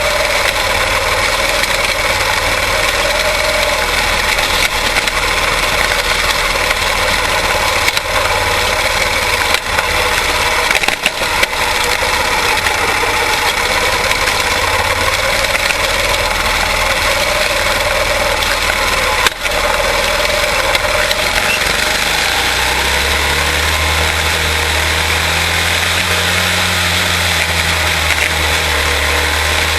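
Quarter midget race cars' single-cylinder Briggs & Stratton Animal engines running steadily. About two-thirds of the way in, a deeper engine drone joins and wavers in pitch.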